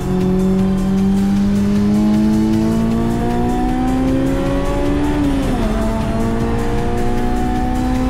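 Honda S2000's four-cylinder engine pulling hard under full throttle, its pitch rising steadily through a gear, dropping with an upshift about five and a half seconds in, then climbing again in the next gear.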